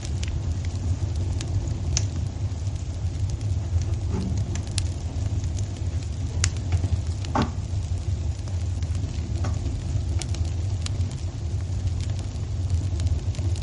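Wood fire in a fireplace: a steady low rumble with scattered sharp crackles and pops, one of them stronger about halfway through.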